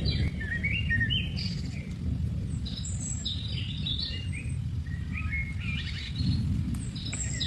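Small birds chirping and singing in short, repeated phrases, over a steady low rumble.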